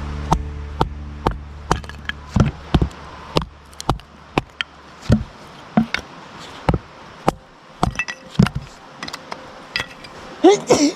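Irregular clinks and knocks of hard objects, about two a second, over background music that fades out in the first few seconds.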